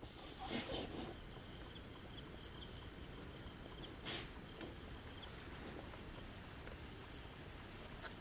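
Insects chirping: a steady high trill with a fainter pulsing chirp beneath it, broken by two short rustling noises, about half a second in and about four seconds in.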